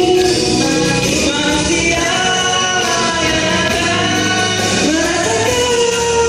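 A band rehearsing a cover song: sung vocals holding long notes, with slides between them, over the full band.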